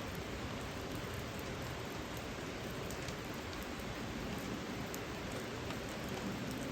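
Steady rain falling, an even hiss with a few sharp drop ticks now and then.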